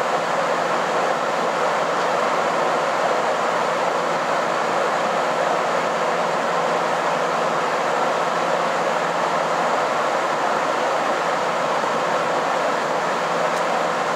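Steady running noise heard inside the passenger car of a KiHa 261 series diesel limited express under way: an even rushing hiss with a faint low hum beneath it and no distinct rail-joint clicks.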